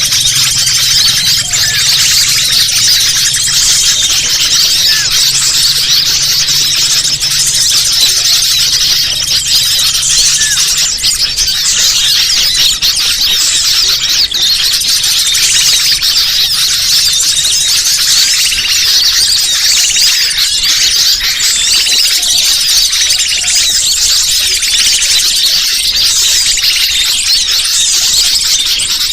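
Bird-lure (pikat) recording: a dense, continuous mass of rapid, high-pitched bird chirps and squeaks, played to draw wild birds in.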